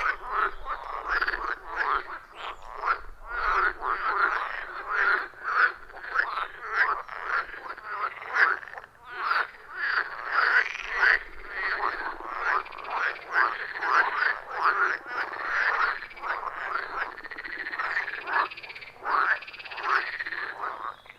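A loud chorus of many frogs calling at once: a dense, unbroken mass of overlapping rhythmic croaks.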